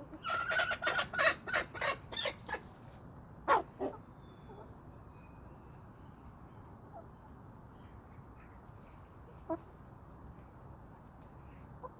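Chickens clucking and squawking: a quick run of loud calls in the first couple of seconds, then two sharp calls about three and a half seconds in, after which only faint sounds remain.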